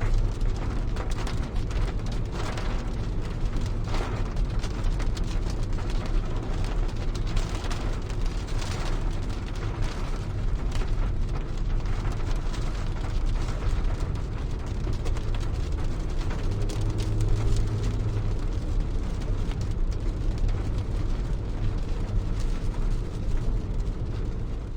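Heavy rain drumming on a car's roof and windows, with scattered sharp drop hits over a deep, steady rumble.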